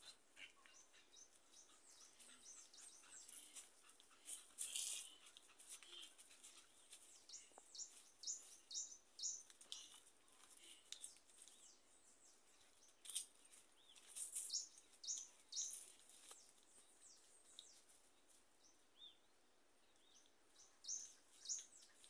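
Faint bird chirps: short high notes in small quick runs now and then, over otherwise near-silent open air.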